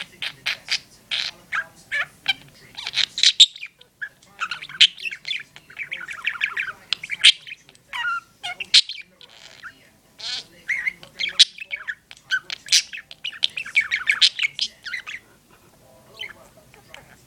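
Pet budgerigar chirping and chattering in quick runs of high chirps and warbles. There are short pauses about four and ten seconds in, and it trails off near the end.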